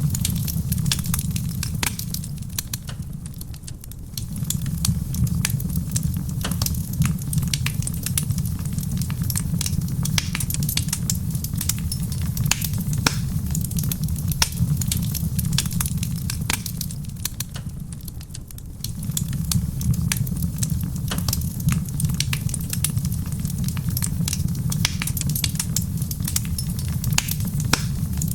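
Wood fire in a stone fireplace crackling, with many sharp pops and snaps, over a steady low rumble that dips away briefly twice.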